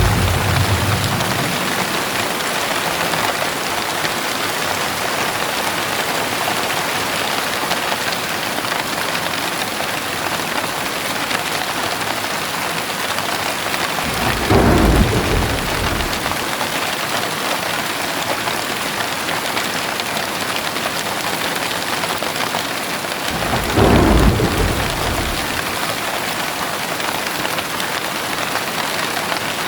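Heavy rain pouring steadily, with low rumbles of thunder three times: at the very start, about halfway through and near the end, each lasting about two seconds.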